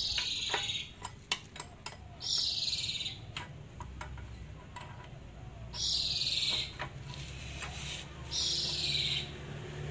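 A bird calling: four harsh calls, each under a second and falling in pitch, evenly spaced about every three seconds. Light clicks sound between the first two calls.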